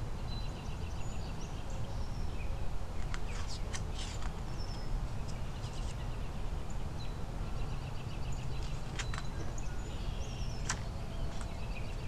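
Small birds chirping in short, high trills a few times in the background, over a steady low hum, with a few faint clicks.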